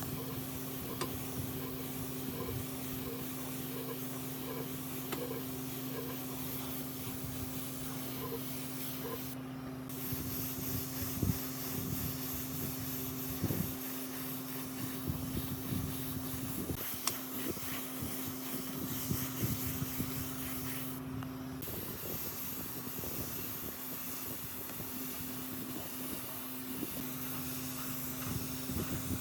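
Workshop machine noise: a steady motor hum with an even hiss over it and a few light knocks.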